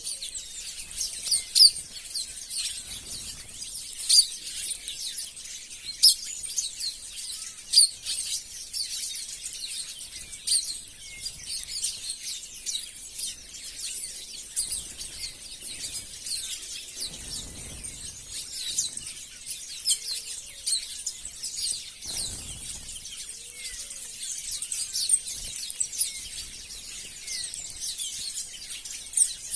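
A flock of birds chirping, many short high calls overlapping continuously, with a few louder sharp chirps every couple of seconds near the start.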